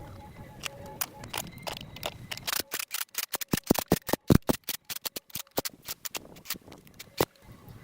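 A run of sharp clicks and knocks, sparse at first, then coming thick and fast for a few seconds in the middle before thinning out again, over a faint steady hum.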